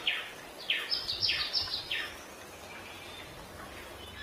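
Bird calls over steady outdoor background hiss: a quick series of about six short chirps, each sliding down in pitch, in the first two seconds, then fainter calls.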